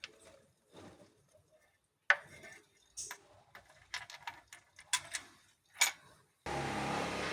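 Scattered sharp plastic clicks and knocks as parts of the air filter housing are handled and unclipped. Near the end a steady rushing noise starts abruptly.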